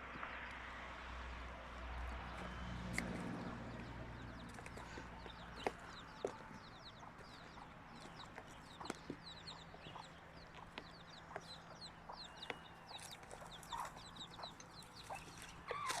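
Chickens clucking, with many quick high chirps of small birds and scattered sharp clicks. A low rumble runs under the first few seconds.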